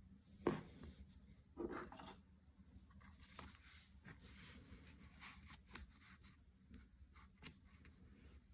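Faint scraping and rubbing of hand work on a small object, with two louder scrapes about half a second and nearly two seconds in, then a run of quick, light strokes.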